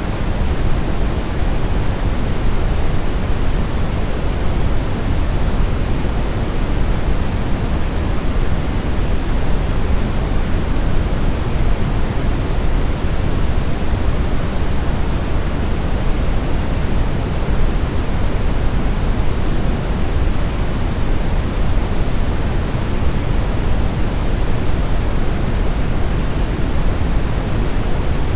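Steady synthetic brown noise: an even, deep rushing hiss weighted toward the low end, with no changes or events.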